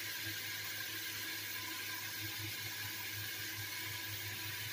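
Steady hiss of ash gourd pieces sizzling in oil and spices under the lid of an aluminium pot.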